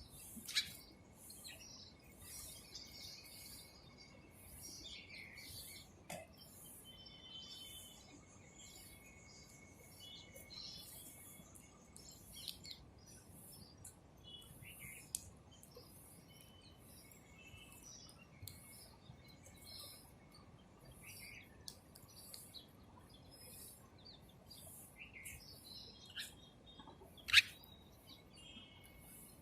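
Faint birds chirping: many short chirps and brief whistled notes, scattered irregularly, over a very high pulsing that repeats about every half second. A single sharp, loud click about 27 seconds in is the loudest sound.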